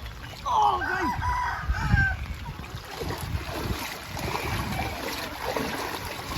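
A rooster crows once, starting about half a second in and lasting roughly a second and a half. A low rumble peaks around two seconds in.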